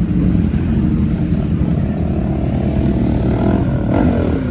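Car and motorcycle engines running at a meet, a steady low rumble with no single engine standing out.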